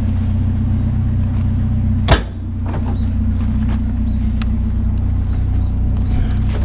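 Vehicle engine idling steadily, with one sharp bang about two seconds in and a few light knocks after it as a chair is picked up and loaded.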